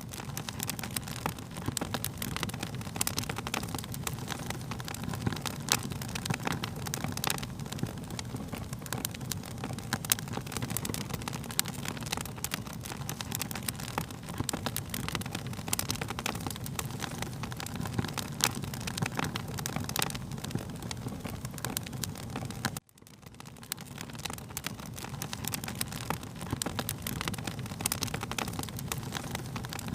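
Wood fire crackling: frequent sharp pops over a low, steady rumble. About three-quarters of the way through, the sound cuts out for an instant and fades back in.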